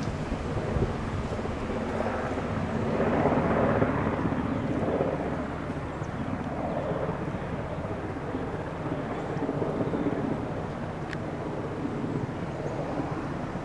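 Airplane passing overhead, a steady drone that swells about three to four seconds in, with wind buffeting the microphone.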